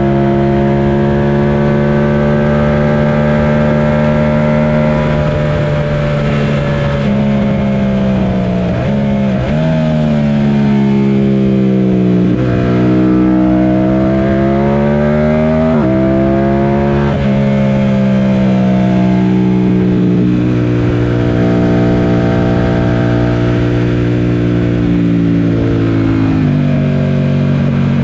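Yamaha FZ-07's parallel-twin engine under hard riding on a race track, its pitch climbing and falling again and again through the gears, with several sudden steps in pitch at the gear changes, over steady wind noise.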